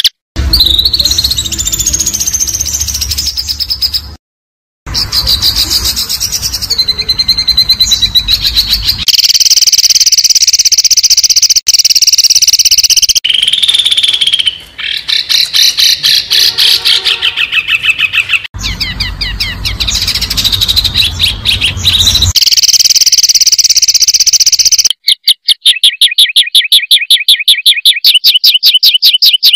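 A bird-song training (masteran) compilation of songbird calls for white-rumped shama and other contest birds: a string of short clips of harsh, sharp chattering and chirping, spliced together with abrupt cuts. Near the end comes a fast run of repeated notes, about five a second.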